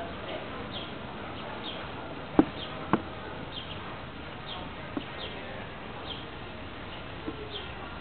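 A bird's short, high, falling chirp repeats faintly about once a second, with two sharp clicks a little over two seconds in and a couple of softer ones later.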